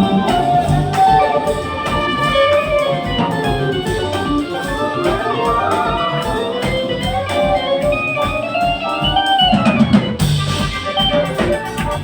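Band music: guitar and drums playing, with a lead melody line that glides up and down in pitch over a regular drum beat.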